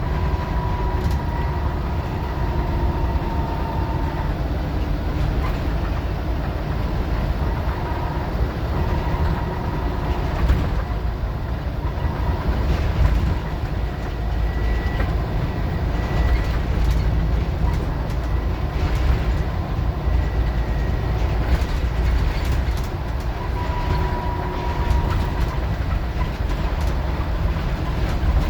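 Scania N94UD OmniDecka double-decker bus under way, a steady low engine and road rumble with a faint thin whine that comes and goes.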